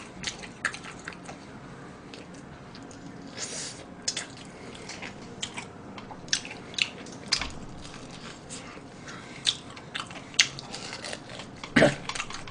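Crispy fried chicken being bitten and chewed close to the microphone: irregular sharp crunches and crackles.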